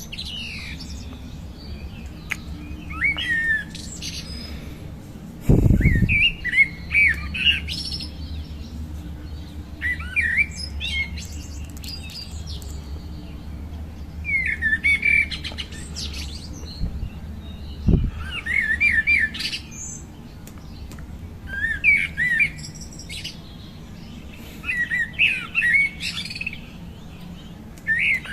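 A songbird singing short, rapidly warbling phrases, repeated every two to three seconds, over a low steady rumble. A loud low thump comes about six seconds in, and a shorter one later.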